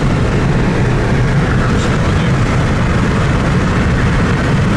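Steady low rumble with a hiss above it, unbroken and even in level throughout.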